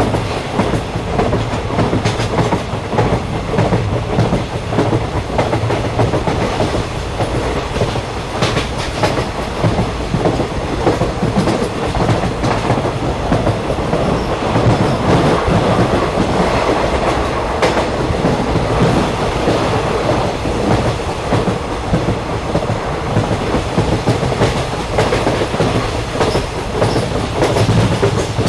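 A moving train heard from on board: steady rumble of the wheels on the rails with a clickety-clack, and a couple of sharper clicks, one about a third of the way in and one past the middle.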